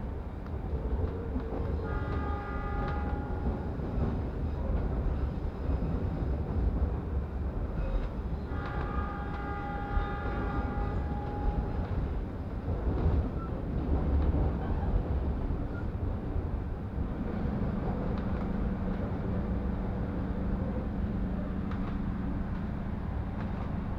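Passenger train running along the track, a steady low rumble heard from inside the carriage. The locomotive's horn sounds twice: a short blast about two seconds in and a longer one of about three seconds starting some eight seconds in. A steady low hum comes in after about seventeen seconds.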